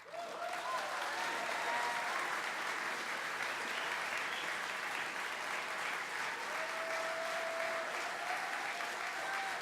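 Audience applause breaking out just after a song's final chord dies away, a steady even clapping with a few voices cheering above it.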